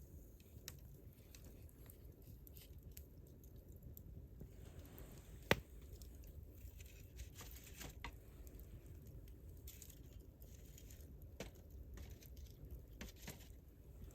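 Wood campfire crackling faintly, with scattered small crackles and one sharp pop about five and a half seconds in.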